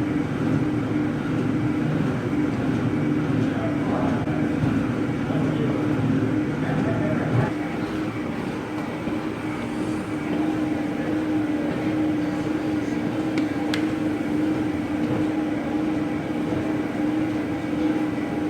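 StairMaster stair-climber running at level 10, a steady mechanical hum with a low drone that fades out about seven seconds in.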